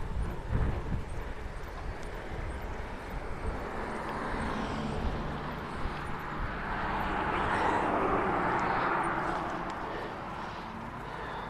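Outdoor ride noise of a bicycle on a gravel railway bed, with wind on the GoPro microphone and low rumbling knocks in the first second or so. Partway in, a broad rushing noise swells, is loudest a few seconds later and fades again.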